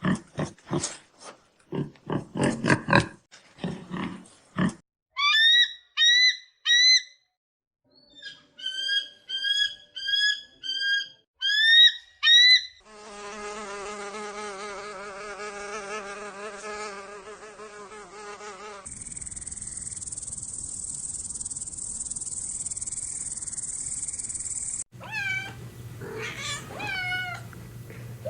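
A sequence of different animal sounds: rough grunting pulses, then a run of short rising chirped calls, then a buzzing insect that wavers in pitch, then a steady high insect trill, and near the end a few short rising-and-falling calls.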